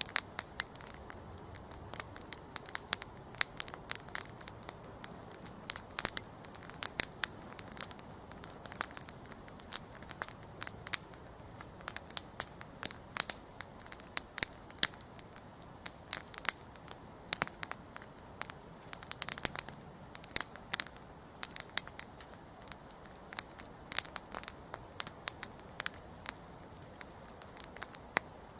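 Wood campfire burning, with constant irregular sharp crackles and pops over a low soft rush of flames.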